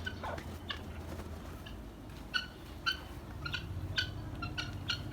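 Faint short bird chirps, about ten single notes at an irregular pace.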